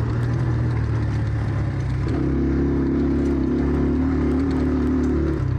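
Enduro motorcycle engine running while being ridden; from about two seconds in until near the end a stronger, higher engine note joins in as it pulls harder, then drops back.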